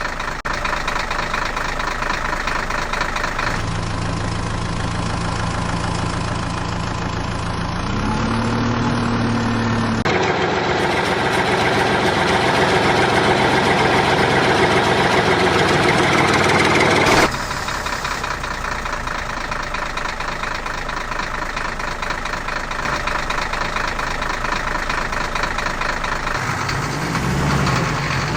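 Engines of heavy vehicles running and idling steadily, in several segments with abrupt changes between them. About eight seconds in, an engine briefly rises in pitch.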